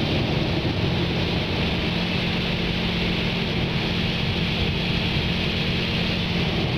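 Automatic car wash running over a car, heard from inside the cabin: a steady rushing wash of spray and machinery with a low hum underneath.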